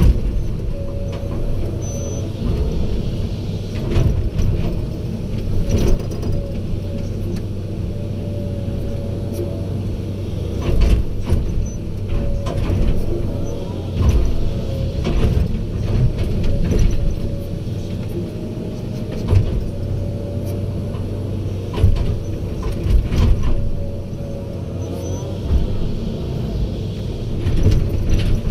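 Heavy diesel machinery running steadily, with a faint wavering whine over the engine and repeated scattered clanks and knocks.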